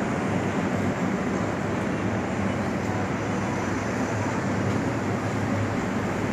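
Arge Max 50 cm wall fan running steadily: a constant rush of air from the blades over a low, slightly pulsing motor hum.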